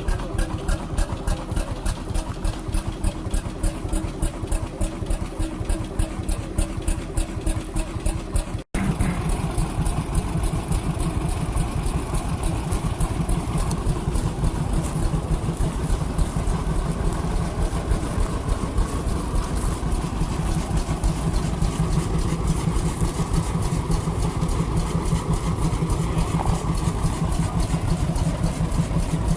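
Vintage engines running with a steady, rhythmic beat. Partway through, the sound cuts to a different engine running with a faster beat.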